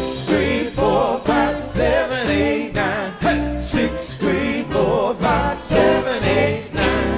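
Live soul band playing an upbeat number: drums keep a steady beat under singing and backing instruments. Near the end the band settles into a sustained chord.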